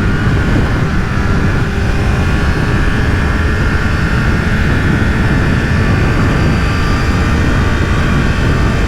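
Heavy wind buffeting the microphone on a moving motorcycle, with the 998 cc inline-four of a 2009 Honda CBR1000RR Fireblade holding a steady engine note underneath.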